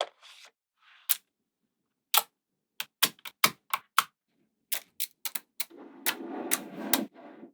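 Small magnetic balls clicking as they snap together: a dozen or more sharp clicks at irregular intervals, with about a second of denser rattling noise around six seconds in.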